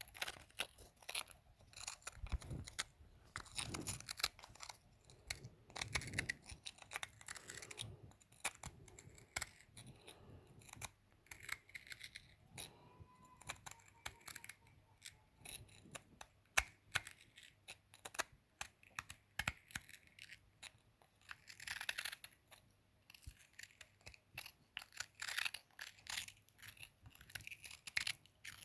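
Rocks being crushed: a long run of crisp, irregular cracks and crunches, coming in denser clusters every few seconds.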